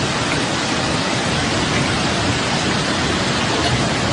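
Steady, loud rushing storm noise from heavy rain or floodwater, unbroken throughout.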